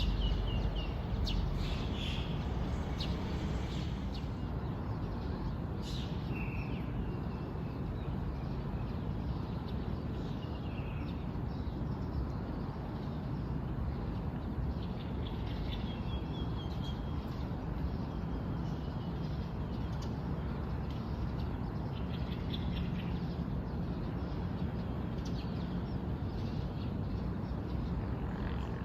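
Wild birds chirping and calling at dawn, short scattered chirps and brief whistled notes, over a steady background rumble and hiss.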